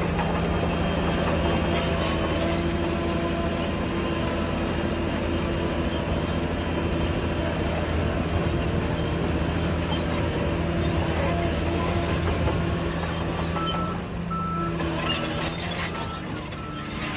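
Heavy diesel earthmoving machinery engine running steadily under load. In the last few seconds a reversing alarm starts beeping, a short single-pitch beep a little more than once a second.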